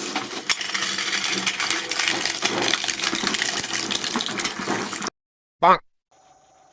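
Dense, continuous clattering and crackling, full of small sharp clicks, that cuts off suddenly about five seconds in. After a short silence comes a brief warbling tone that rises in pitch.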